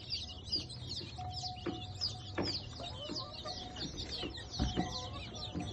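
Many birds chirping at once in a dense, continuous chorus of short high calls, with poultry clucking among them.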